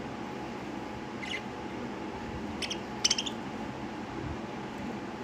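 Lovebirds chirping: a few short, high chirps, the loudest about three seconds in, over a steady background hum.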